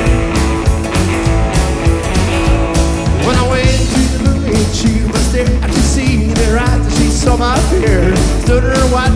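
Rockabilly band playing an upbeat rock and roll song with a steady, driving beat. A wavering lead melody line comes in about three seconds in.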